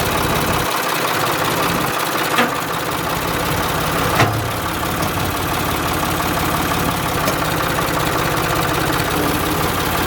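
An engine running steadily at low speed, pushing a dead tractor, with two short knocks about two and four seconds in.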